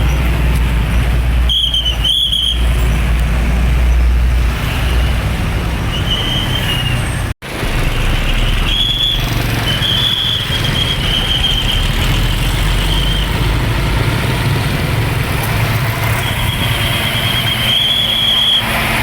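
Heavy trucks passing on a road, with diesel engine rumble and road noise. A high steady tone comes and goes. The sound breaks off sharply about seven seconds in and resumes.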